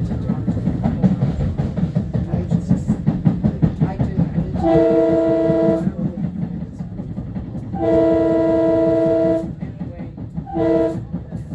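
Long Island Rail Road M3 train running with rhythmic wheel clatter over the rail joints, then its horn sounding a chord in two long blasts and a short one. A fourth long blast begins right at the end, making the long-long-short-long warning pattern.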